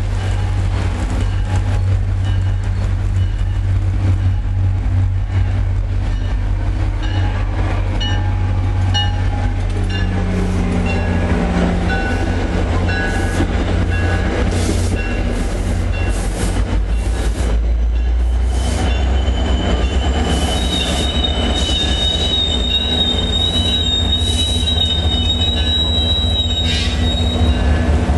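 Commuter train rolling past with a steady low rumble and a run of clicks from the wheels. About two-thirds of the way in, a high-pitched wheel squeal starts and holds for several seconds.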